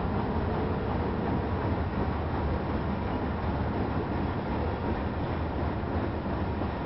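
Coal hopper cars of a unit coal train rolling past: steady noise of steel wheels on the rail.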